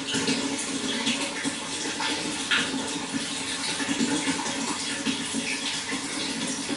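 Water running and splashing in a steady, uneven stream.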